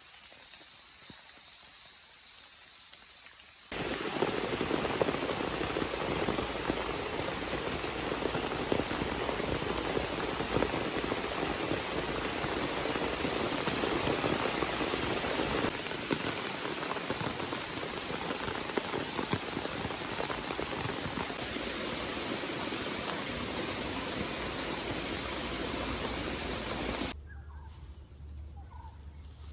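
Heavy rain falling, a dense steady hiss of countless drops, which starts abruptly a few seconds in. It cuts off sharply near the end to a quieter background with a few short chirps.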